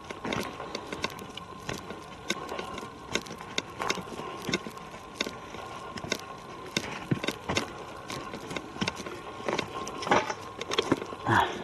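Footsteps on a woodland trail: irregular crackles and crunches of leaf litter and twigs underfoot while walking.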